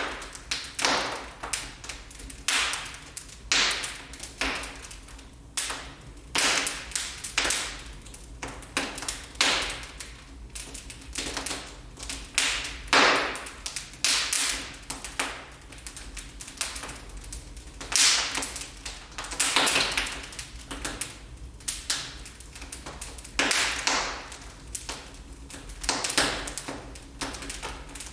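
Wood fire in a fireplace crackling, with irregular sharp pops and snaps, some in quick clusters and a few louder single cracks.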